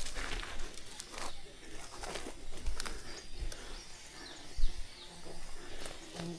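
Outdoor forest sound: scattered rustling and knocks, with a bird chirping several short notes in the middle and a sharp low thump a little after four and a half seconds.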